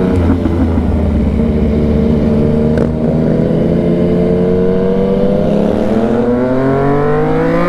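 Yamaha MT-09's three-cylinder engine running under way at a steady pitch, then revving up, its pitch rising over the last two or three seconds, and falling sharply at the very end.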